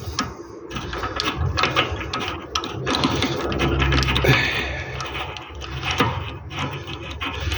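Ratchet wrench clicking in quick runs, with sharp metal clinks from tools and parts.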